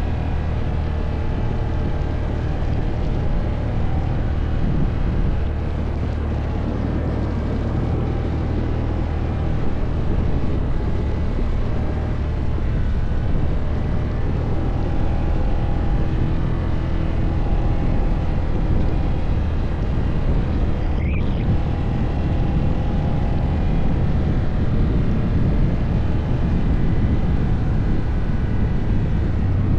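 ATV engine running steadily while riding over rough off-road ground, a constant low drone with a rough noisy rattle over it. A short rising squeak about three-quarters of the way through.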